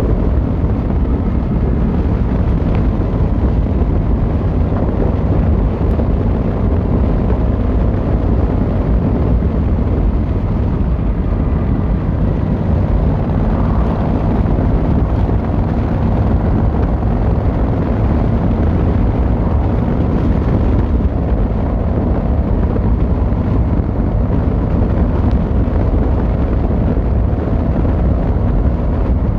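Yamaha XVZ1300 Royal Star's V4 engine and exhaust running steadily while the motorcycle is ridden, with wind rushing over the microphone.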